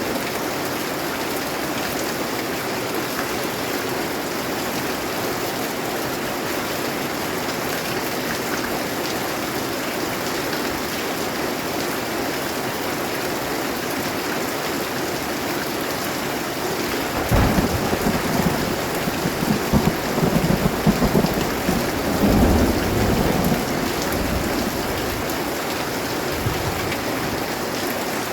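Steady rain falling, with a rolling rumble of thunder that builds in uneven surges about two-thirds of the way through and lasts several seconds.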